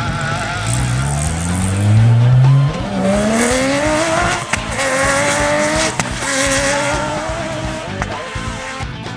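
Rally car engine revving hard under acceleration, its pitch climbing twice as it pulls through the gears, then held at high revs. A few sharp cracks come at the gear changes.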